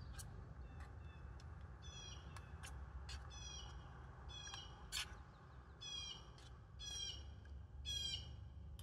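A bird calling again and again: about eight short calls, spaced half a second to a second apart, over a steady low rumble. A few sharp clicks sound among the calls, the loudest about five seconds in.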